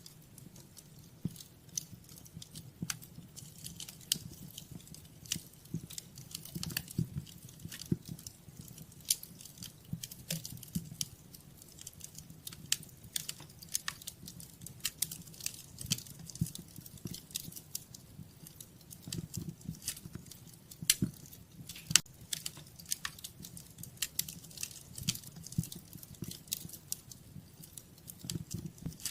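Wood fire crackling in a fireplace: irregular sharp pops and snaps, several a second, a few louder ones standing out, over a soft low rumble of the flames.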